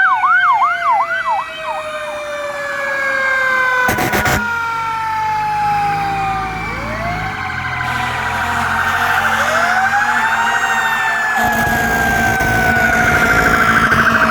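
Several fire truck sirens sounding at once: a fast electronic yelp that fades out within the first two seconds, long slowly falling wails, and fresh rising wails about seven and nine seconds in, over a low rumble. A short sharp burst of noise cuts in about four seconds in.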